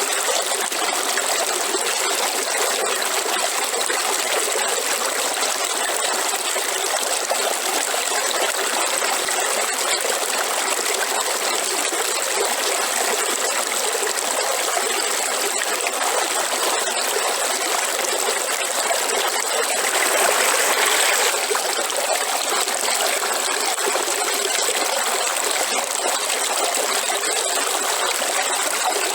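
River water flowing, a steady rushing and trickling with a brief louder surge about two-thirds of the way through.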